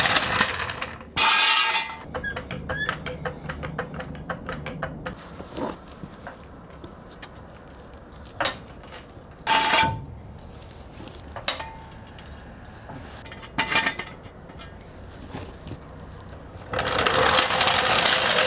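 Metallic clicks and clanks from hands-on work: a rapid run of clicks about two seconds in, then a handful of single sharp knocks spread out over the rest, with rustling noise at the start and near the end.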